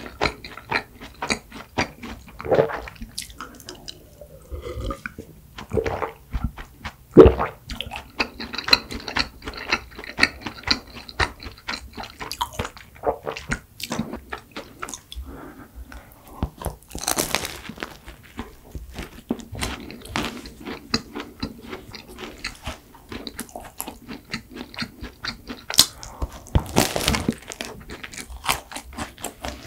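Close-up chewing of pastry, with many small wet mouth clicks. Two louder flaky crunches come about halfway through and near the end, the last a bite into a chocolate-coated croissant.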